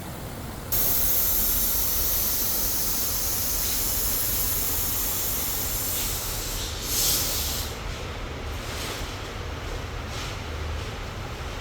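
A loud steady hiss that starts suddenly about a second in, surges briefly about seven seconds in, then dies away to a quieter background.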